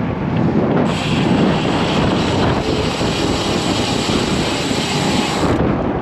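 Strong wind rushing over the microphone of a bicycle-mounted camera, mixed with passing road traffic. A brighter hiss comes in about a second in and stops shortly before the end.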